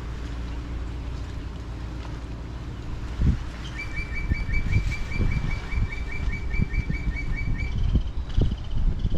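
A bird singing a fast, even series of repeated chirps, about four or five a second, for around four seconds, then a brief different trill near the end. Low wind and water rumble with gusts on the microphone run underneath.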